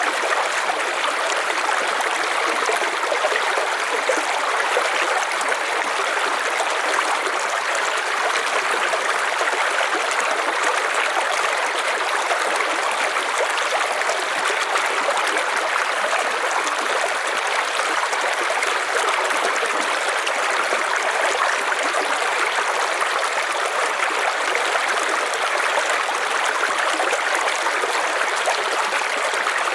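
River water flowing over stones in a steady rushing and babbling stream sound, unchanging throughout.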